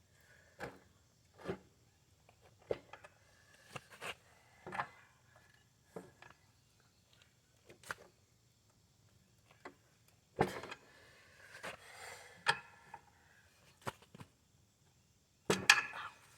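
Scattered knocks and clicks of hand tools working on a mower deck while an engine bolt is being loosened, coming at uneven intervals about once a second, with louder knocks about ten seconds in and near the end.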